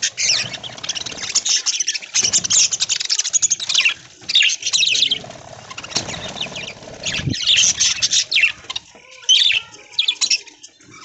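A flock of budgerigars chirping and chattering, many short high calls overlapping continuously.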